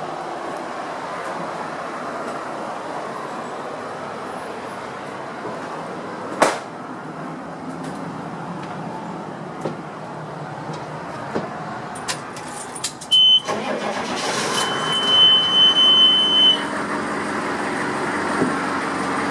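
1991 Chevrolet step van's diesel engine being started: a few clicks, then the engine cranks and catches about two-thirds of the way through and runs on. A high, steady warning chime sounds for about two seconds as it starts.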